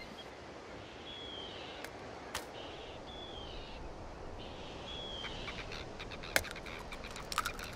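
A bird calls three times, each a short high note with a slight glide, about two seconds apart, over faint outdoor ambience. A few light clicks and taps, thicker near the end.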